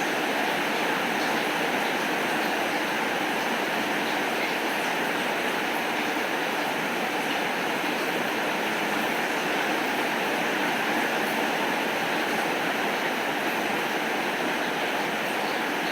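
Steady rain falling, an even hiss that does not rise or fall, with no thunder.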